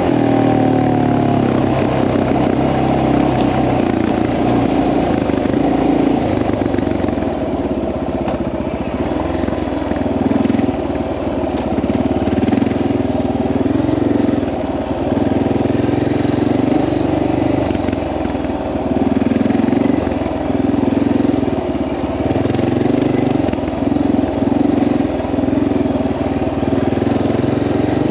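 Honda XR650L dirt bike's single-cylinder four-stroke engine running continuously while being ridden, its note rising and falling with the throttle. The pitch drops at the very start.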